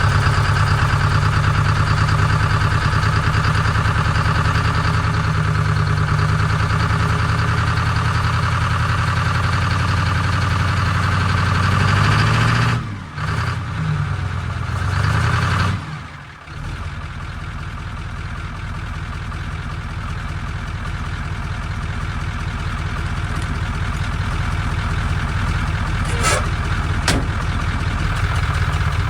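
Engine running steadily. About 13 and 16 seconds in the sound drops out briefly, then an engine runs on with a somewhat different tone, slowly growing louder toward the end.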